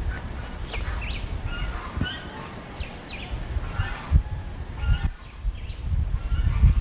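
Birds calling: many short high chirps and quick falling calls, over an uneven low rumble.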